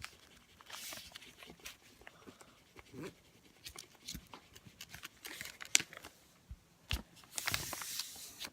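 A sheet of paper being handled, folded and creased into a paper airplane's wing: soft rustles and scattered light clicks.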